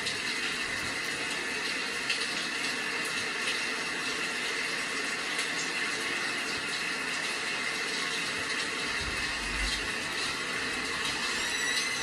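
Steady rain: an even hiss with scattered faint drop ticks. A brief high chirp near the end.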